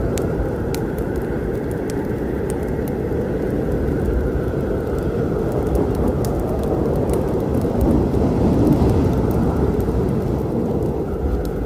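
Rain with a deep rumble of thunder that swells about eight seconds in, over the scattered sharp crackles of a wood fire.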